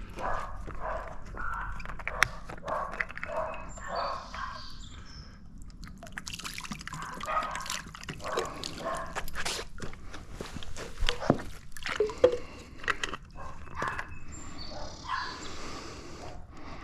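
Stiff brush scrubbing algae off a pool cleaner's wheels in repeated short, wet strokes, with clicks and knocks as the cleaner is handled.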